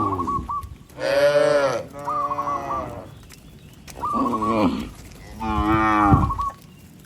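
Cattle mooing repeatedly: four or five separate moos, each under a second long, several falling in pitch as they end.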